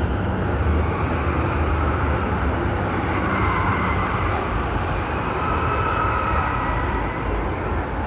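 Steady low rumbling background noise with no distinct single event, and faint tones drifting in and out above it.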